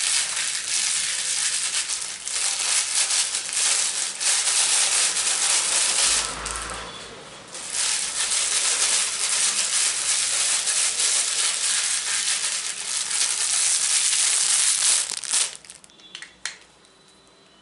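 Close, dense crinkling and crushing, like material being scrunched right at the microphone as an ASMR trigger. It eases off briefly partway through, then stops suddenly near the end, leaving a couple of light clicks.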